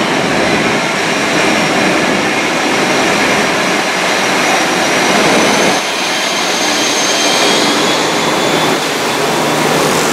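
Train passing close by at speed: a loud, steady rush of wheel and air noise with a faint high whine over it that rises slightly partway through.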